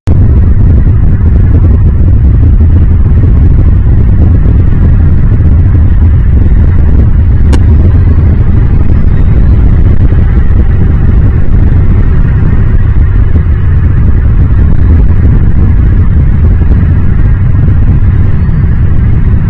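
Loud, steady rumble of wind buffeting the microphone, with a few faint high bird chirps.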